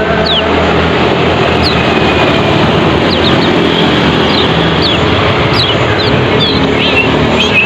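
Kecial kuning (a white-eye) giving short, quick downward-sweeping chirps, scattered and coming more often toward the end, over a loud, steady rumbling noise with a low hum.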